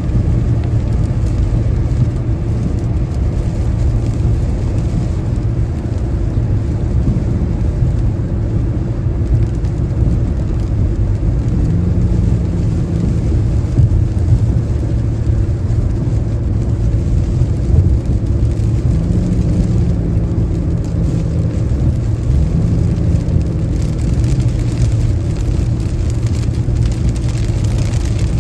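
Car driving at highway speed in the rain: a steady low road rumble of tyres on wet pavement, with rain and spray mixed in.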